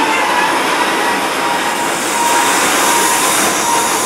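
Wheels of loaded container flatcars of a freight train rolling past on the rails, a steady loud rush. A faint thin squeal from the brand-new flatcars comes in during the second half.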